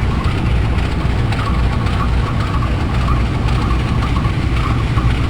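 Train running on the rails: a steady low rumble with no let-up.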